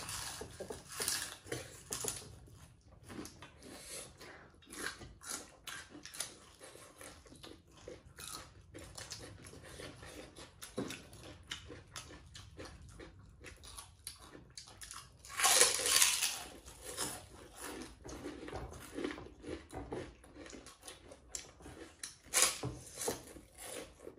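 Close-miked chewing and crunching as people bite into raw yellow peppers and eat meat, rice and dhido by hand, in many short bites with one louder, longer crunch about two thirds of the way through.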